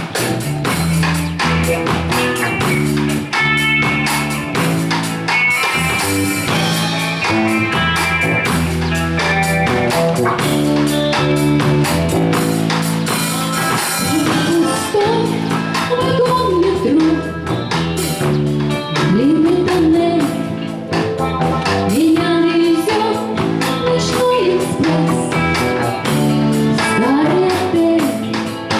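Pop-rock song with a steady drum beat, bass and guitar; a woman starts singing about halfway through.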